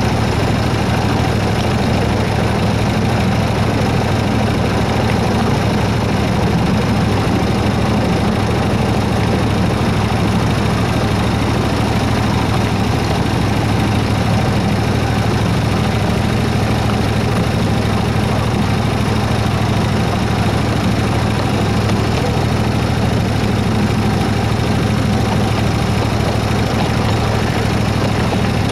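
Engine of a 7¼-inch gauge miniature Baldwin S-12 locomotive running steadily with a low hum, pulling along at slow speed.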